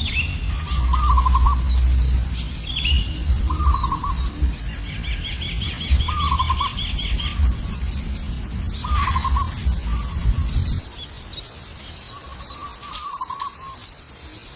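Birds calling: a short, wavering call repeated about every two to three seconds, a fast trill partway through, and faint high chirps. Under them is a low rumble that cuts off abruptly about eleven seconds in.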